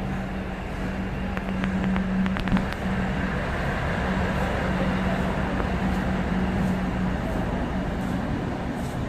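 Steady hum and rumble of a passenger train at a station platform, with a quick run of clicks and knocks about two seconds in.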